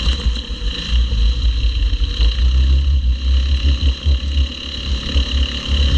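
Small-engined junior race cars running around the track under green flag racing, heard as a steady mechanical drone, with heavy low rumble over it.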